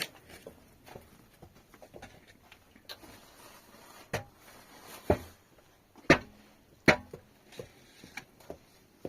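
A handful of scattered knocks and thumps in a small room, with the loudest two about six and seven seconds in.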